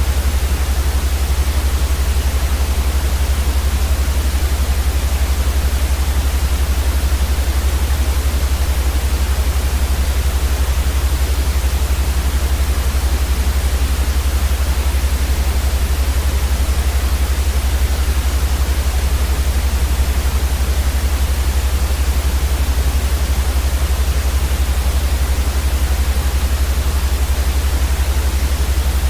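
Steady white noise played for sleep: an even, unchanging hiss across the whole range, with a strong low rumble underneath.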